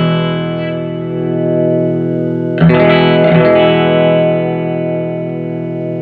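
Electric guitar played through a Fender Hot Rod Deluxe tube amp, freshly fitted with a new pair of 6L6GC power tubes: a chord rings on and fades, a new chord is struck about two and a half seconds in and left to ring. The amp is working again after the repair.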